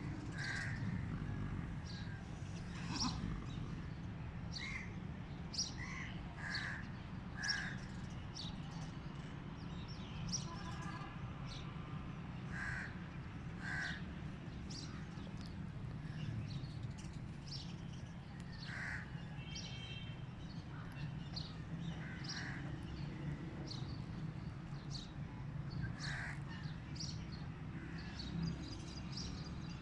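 Birds calling over and over in short calls, about one or two a second, over a steady low rumble.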